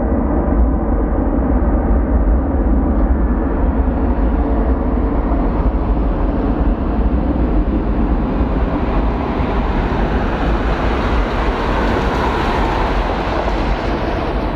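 Jet airliner engines at takeoff thrust: a loud, steady rumble that grows brighter toward the latter half, then eases slightly near the end.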